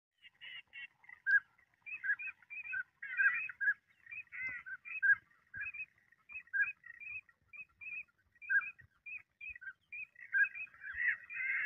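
Birds chirping: many short, high calls, several a second, overlapping at times.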